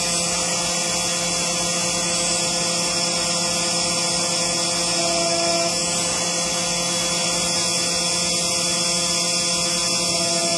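CNC engraving machine running: a steady spindle whine and hiss with a low hum, and short stepper-motor tones that come in briefly about five seconds in.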